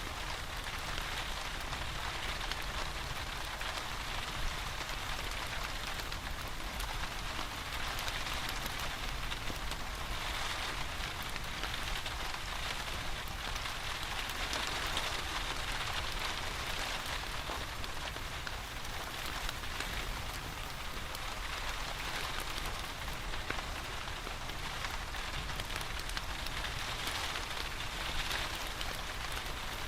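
Steady rain, an even hiss dotted with the ticks of single drops, with a fireplace crackling faintly beneath it.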